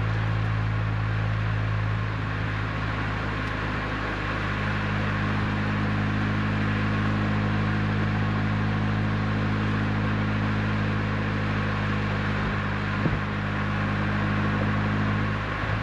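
Renault Twingo RS Gordini's 1.6-litre four-cylinder engine cruising at steady, light revs through an Inoxcar 80mm stainless steel aftermarket exhaust, an even low hum that holds its pitch. A single short knock sounds near the end.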